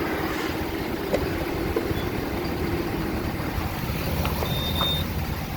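Box truck's diesel engine idling with a steady low rumble; a short high beep sounds about four and a half seconds in.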